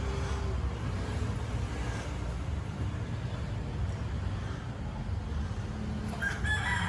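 Steady low motor rumble, like a vehicle engine or nearby traffic running.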